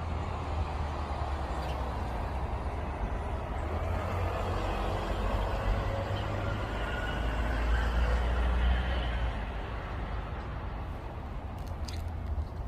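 A road vehicle passing, its noise swelling to a peak about two-thirds of the way through and then fading, over a steady low rumble.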